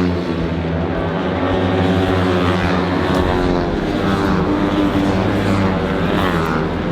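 Several small-capacity racing motorcycle engines running at high revs, overlapping, with their pitch rising and falling as they pass and change speed.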